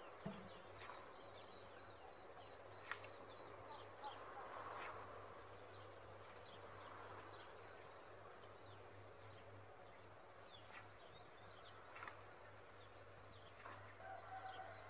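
Faint birdsong: scattered short chirps over a quiet outdoor background with a low steady hum, and a few faint clicks.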